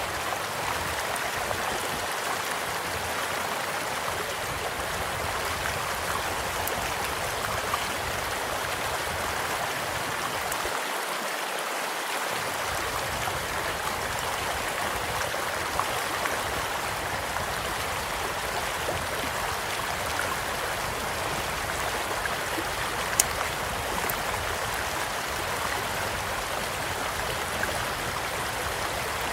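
A stream flowing steadily, with a few sharp pops from a crackling campfire. The clearest pop comes about two-thirds of the way through.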